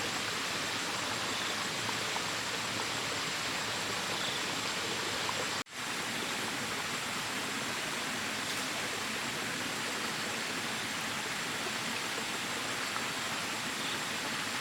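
Steady rushing noise like running water, cut off for an instant about five and a half seconds in.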